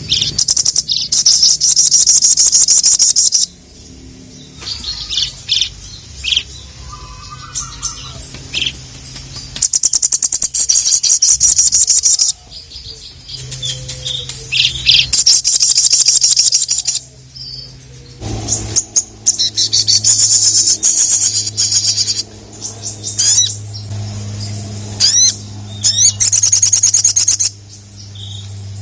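Little spiderhunter (sogon) singing: a run of loud, high, rapid chattering trills lasting one to three seconds each, repeated with short gaps. A steady low hum joins about two-thirds of the way through.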